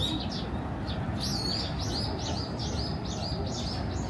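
A small songbird singing: a run of quick, repeated high chirps, about three a second, starting about a second in, over steady low background noise.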